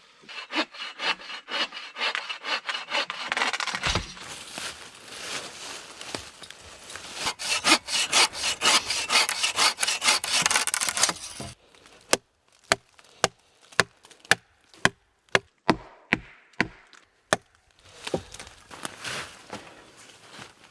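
Hand saw cutting through wood with quick, rhythmic back-and-forth strokes. Partway through the sawing stops and about a dozen sharp, separate wooden knocks follow, roughly two a second. Sawing then resumes near the end.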